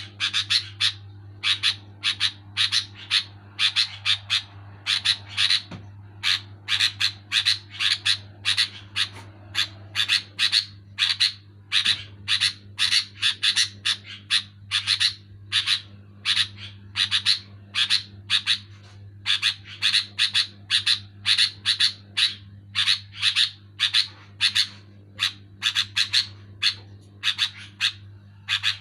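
Sooty-headed bulbul calling loudly and without let-up in quick clusters of short, bright notes, a new burst about every second. This is the vigorous 'gacor' calling used as a lure to set other bulbuls singing. A steady low hum runs underneath.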